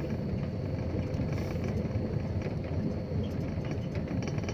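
Dump truck's diesel engine and road noise while driving along, heard from inside the cab: a steady, even low rumble.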